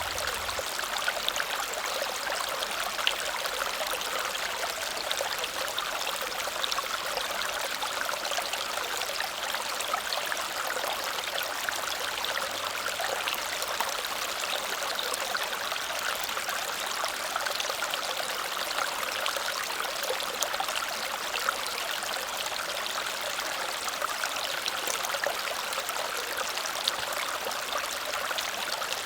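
Waterfall splashing steadily over rocks, a constant rushing hiss with fine splashing detail.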